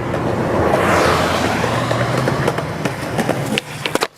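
Skateboard wheels rolling over pavement in a loud, steady rush that swells about a second in and then eases off, with sharp clacks near the end.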